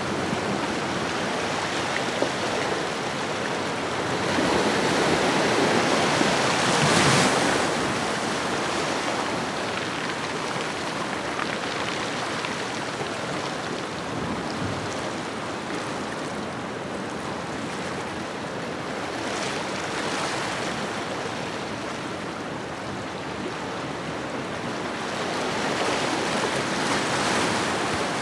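Ocean waves breaking and washing on a shoreline, a continuous rushing surf that swells louder about five to seven seconds in, again around twenty seconds, and near the end.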